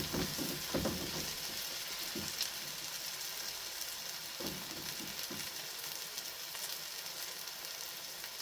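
Chicken back frying in hot oil, a steady sizzle, with a few short knocks in the first second and again around halfway through.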